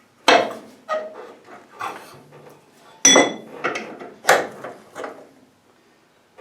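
A series of sharp metal clanks and knocks, about seven at irregular intervals, some ringing briefly. The sound comes from the steel strip being bent into an exhaust hanger bracket as it is worked and handled.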